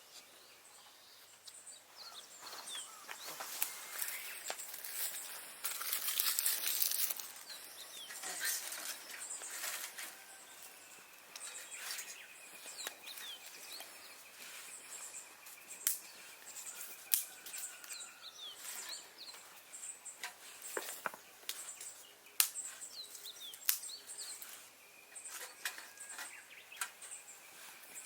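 Dry twigs and leaves rustling, with a burst of rustling about five seconds in and scattered sharp snaps throughout, while small birds chirp in the background.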